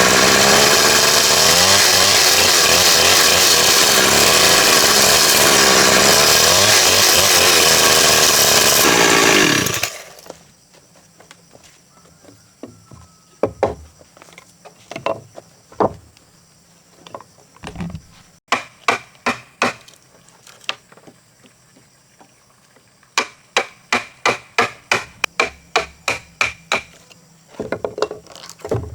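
Chainsaw running under load, cutting timber, that stops abruptly about ten seconds in. It is followed by a run of sharp, ringing knocks, about three a second in bursts.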